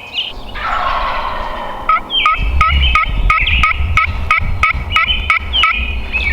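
A wild turkey gobbling, followed by a fast run of about fourteen sharp turkey yelps, roughly four a second.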